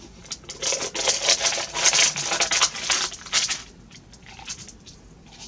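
Parchment paper crinkling and crackling as it is handled, from about half a second in until about three and a half seconds, then quieter.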